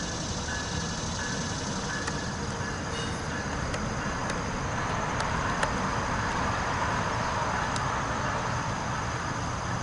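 Train rolling by on the rails, with a steady rumble and scattered clicks. A bell rings about twice a second for the first three seconds and then stops, and the rolling noise grows louder from about halfway through.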